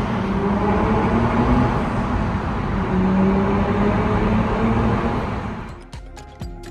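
Car engine running with gentle rises and falls in pitch, over a steady road-like rush; it fades out near the end as music comes in.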